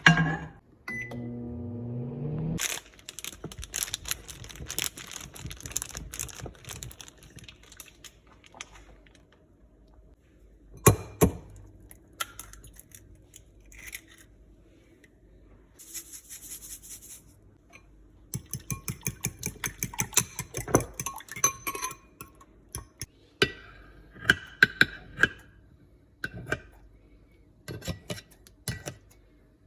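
Utensils and dishes clinking and tapping against a bowl while eggs are prepared for scrambling, including a run of quick, even taps like a fork beating eggs. It opens with a short rising hum.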